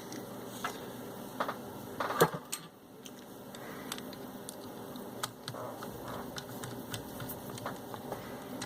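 Scattered small clicks and taps of parts being handled and fitted into a VCR's tape mechanism during reassembly, with one louder click about two seconds in.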